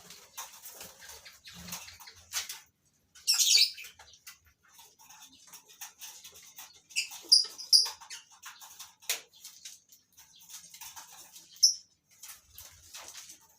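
Lovebirds in a colony chirping with short, sharp, high calls among light clicking and scratching, with a louder harsh burst of calls about three seconds in.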